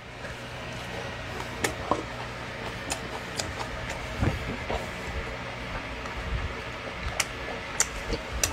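A man chewing a mouthful of boiled pork (bossam), with scattered small mouth smacks and clicks over a steady low background hum.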